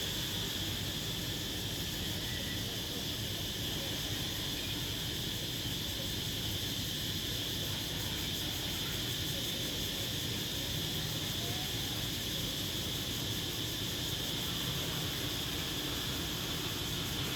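A dense chorus of crickets shrilling without a break in one steady high-pitched band, over a low, even background rumble.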